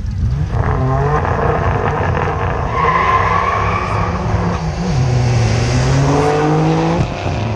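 Two drag cars, a twin-turbo 3-litre V6 Mitsubishi GTO and a 6-litre Chev V8 HSV Senator, accelerating hard down the strip at full throttle. The engine note rises, drops at a gear change about five seconds in, and rises again.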